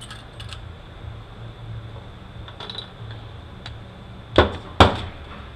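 Transmission bearing and race parts being handled during teardown: a few light metallic clicks, then two loud knocks about half a second apart near the end, over a steady low hum.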